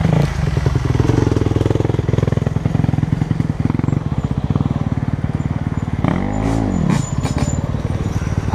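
Motorcycle engine idling steadily, with one brief rev that rises and falls about six seconds in, and a few light clicks just after.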